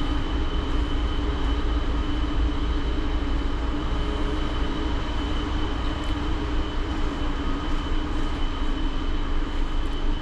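Steady hum of a cruise ship's ventilation fans and machinery: a deep rumble under a constant drone with a steady high whine.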